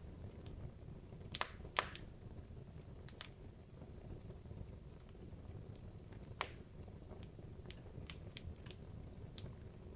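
Wood logs burning in a fireplace, crackling: scattered sharp pops and snaps over a low, steady rumble of the fire. The loudest pops come at about one and a half and two seconds in, and another about six and a half seconds in.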